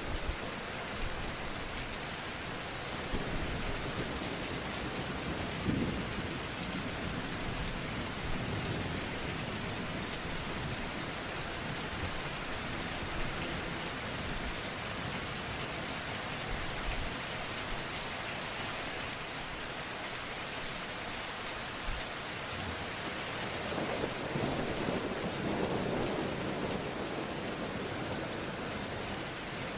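Steady rain falling, with thunder rumbling low about six seconds in and again, longer, near the end.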